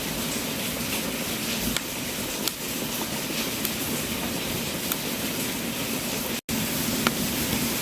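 Wood fire burning in a fireplace: a steady hiss with a few sharp crackles and pops. The sound cuts out for an instant about six and a half seconds in.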